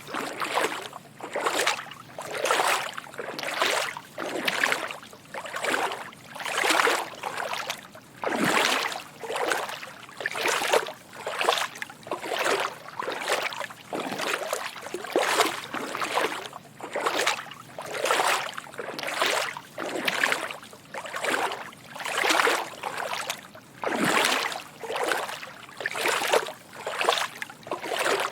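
Footsteps wading through shallow water: soft sloshing splashes at an even walking pace of about one step a second.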